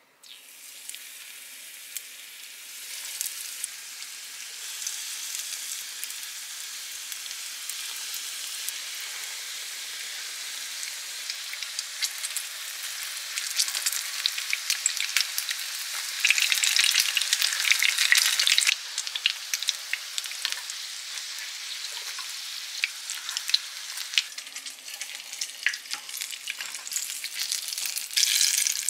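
Breadcrumb-coated eggplant and shrimp pieces shallow-frying in hot oil in a frying pan: a steady crackling sizzle that grows louder for a couple of seconds about sixteen seconds in.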